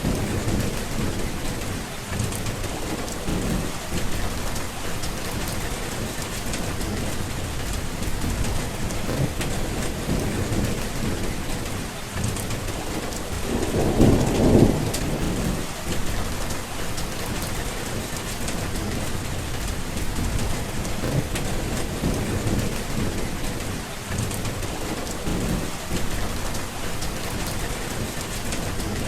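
Steady heavy rain falling, with a low rumble of thunder swelling and fading about halfway through, the loudest moment.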